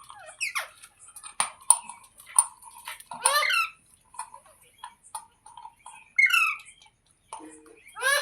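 Ringneck parakeet squawking: a few short, harsh, high calls, the loudest about three seconds in, with soft clicks and chatter between them.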